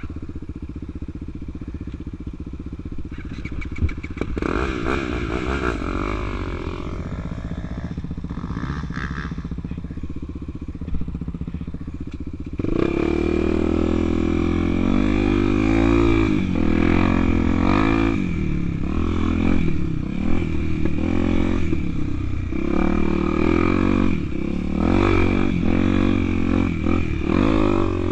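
Honda Tornado 250 cc single-cylinder four-stroke dirt bike engine being ridden off-road, its revs rising and falling with the throttle. It gets louder about thirteen seconds in.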